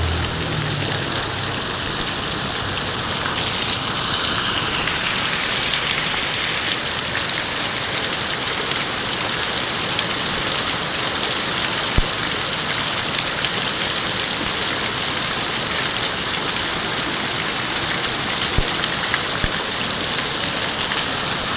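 Heavy tropical downpour: a steady, loud hiss of rain pouring onto the road and surfaces. A few sharp single knocks sound near the end.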